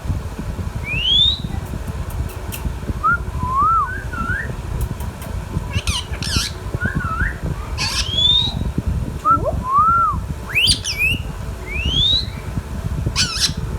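Indian ringneck parakeet whistling: repeated short arched notes and quick rising whistles, broken three times by brief harsh squawks, over a steady low rumble.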